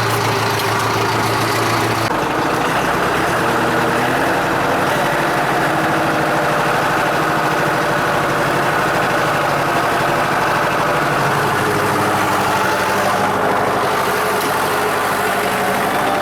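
Valtra T160 tractor's diesel engine running steadily at raised revs while it drives a feed mixer. Its note shifts slightly about two seconds and five seconds in.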